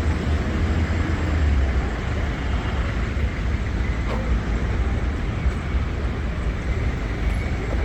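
Steady city street traffic noise: a continuous low rumble of passing vehicles, with no distinct single event.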